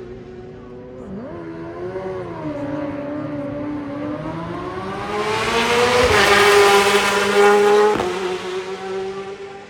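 Race superbike engine at high revs, approaching and passing at speed. Its pitch rises and falls with gear changes, it is loudest about six to eight seconds in with a drop in pitch as it goes by, and then it fades away.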